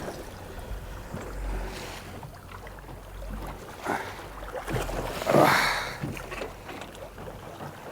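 Water sloshing against the hull of a small flats boat rocking in choppy sea, with wind rumbling on the microphone; two louder swishes of water about halfway through.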